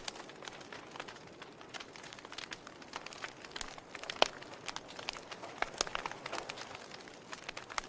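Fire burning, crackling with irregular sharp pops over a soft hiss; one pop about four seconds in is the loudest.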